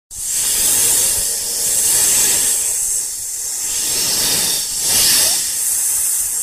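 Snake hissing: a long, loud, breathy hiss that swells and eases a little.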